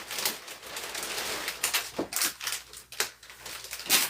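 Thin plastic sheeting crinkling and crackling as it is handled and pressed into place with tape, in an irregular run of sharp crackles and small clicks.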